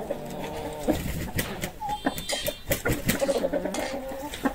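Pigeons cooing and hens clucking, with scattered sharp clicks.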